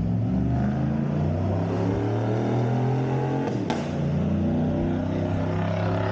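2019 Chevy Tahoe's V8 running through a freshly fitted three-inch cat-back custom exhaust, the engine note rising and falling as it revs. A single sharp click sounds a little past halfway.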